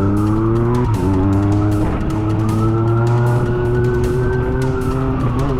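Motorcycle engine running at steady high revs, with a police siren wailing slowly over it, its pitch falling, then rising and falling again.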